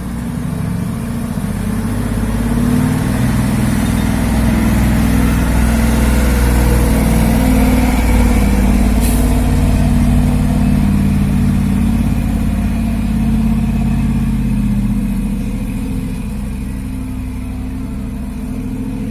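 A heavy diesel truck's engine runs under load, growing louder over the first few seconds, then holding steady and easing slightly near the end. A brief high hiss comes about halfway through.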